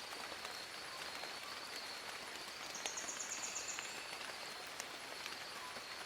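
Steady rain falling on forest leaves, with scattered drips. About three seconds in comes a brief high, rapid trill lasting about a second.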